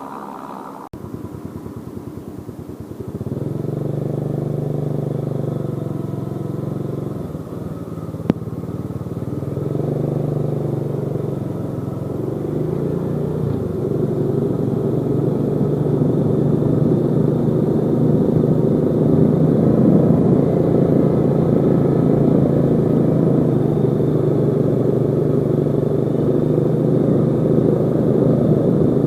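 Yamaha Jupiter Z motorcycle's single-cylinder four-stroke engine running under way, swelling and easing for the first several seconds, then steadily getting louder. The engine is prone to stuttering ("brebet"), the sign of a carburettor setting fault.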